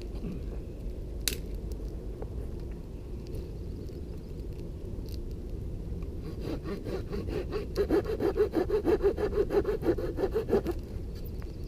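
A hand saw cutting through wood, with fast, even back-and-forth strokes that start about six seconds in, grow louder and stop after about four seconds.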